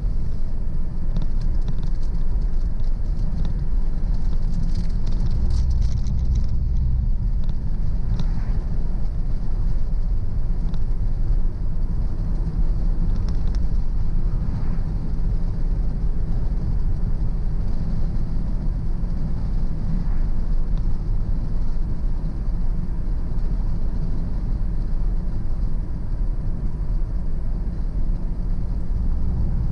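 A car driving at a steady speed: an even low rumble of engine and road noise.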